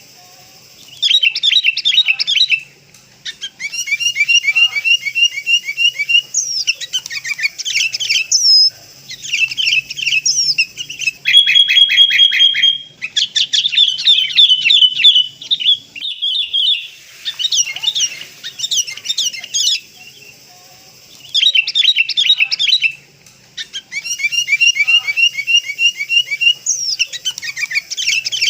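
Sooty-headed bulbuls chattering and calling in loud, busy bursts of rapid chirps and trills, with short pauses between bursts.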